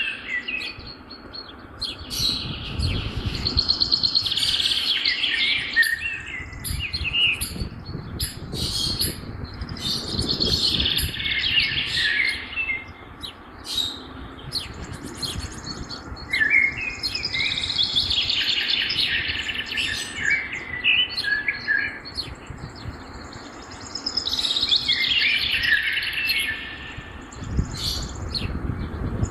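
Songbirds singing outdoors: a bright song phrase of a couple of seconds repeats every five or six seconds, with short chirps in between, over a low rumble.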